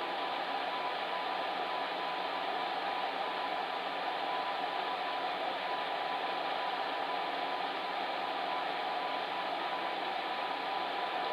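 Fan heater running steadily: an even blowing hum, its rushing air noise strongest in the middle range, with a faint steady tone running through it.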